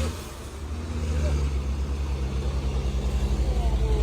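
Heavy diesel truck engine labouring up a steep climb: a low, pulsing drone that drops briefly near the start and then builds steadily louder.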